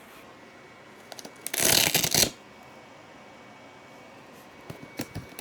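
Cardboard packaging being handled: a few small clicks, then a loud rasping burst of cardboard friction lasting under a second, and a few light knocks near the end.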